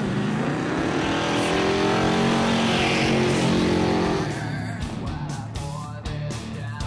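Ford 302 V8, fed by a lawn-mower carburetor, pulling away under throttle: its note climbs for about two seconds, holds, then drops off about four seconds in.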